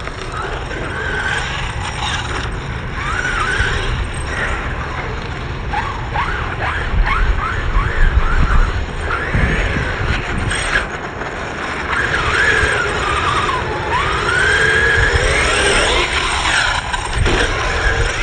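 Radio-controlled truck's small electric motor whining, its pitch rising and falling in quick swoops as the throttle is worked, over a steady low rumble.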